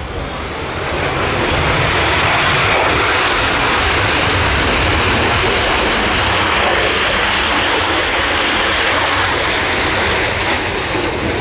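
Panavia Tornado jet, with twin RB199 turbofans, passing low: a loud roar of jet noise that swells over the first second or so, then holds steady and eases slightly near the end.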